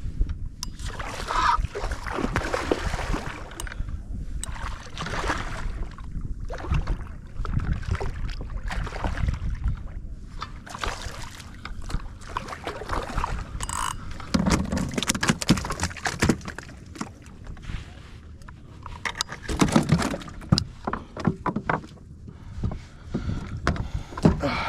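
Water sloshing and splashing around a fishing kayak, in irregular surges with scattered knocks and clicks.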